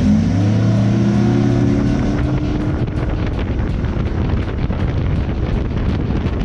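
Yamaha 350 5.3-litre V8 four-stroke outboard running at speed, its engine note clear and rising slightly for the first couple of seconds, then buried under a steady rush of wind noise.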